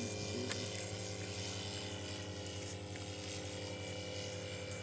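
Radio-controlled model C-160 transport plane's motors and propellers droning steadily in flight, an even hum that is not very loud and sounds like a real aircraft.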